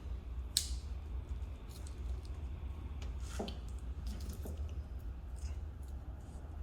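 A few faint clicks and rustles of hose and fittings being handled, over a steady low hum; the clearest clicks come about half a second in and about three and a half seconds in.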